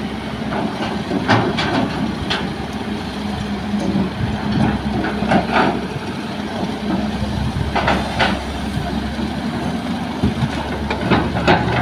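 Heavy earthmoving machinery's diesel engine running steadily, with scattered short knocks and clatters of the digging and loading work.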